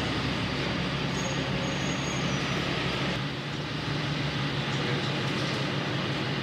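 Narrow-gauge train running, heard from inside the carriage: a steady rolling noise with a low hum. The deepest rumble falls away about three seconds in.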